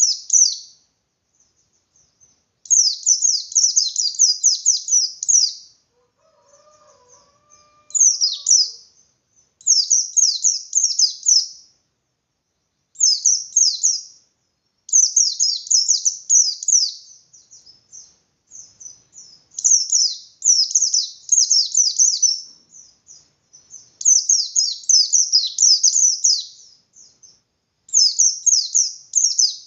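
A pleci (white-eye) of the bustomi type singing its fast, full 'ngalas' song. It comes in bursts of rapid, high, downward-sliding notes, each burst lasting one to three seconds, repeated after short pauses.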